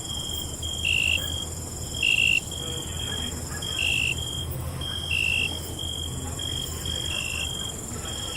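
Night chorus of crickets chirping: short high chirps repeating about every second or so, over a steady higher-pitched insect trill and a faint low rumble.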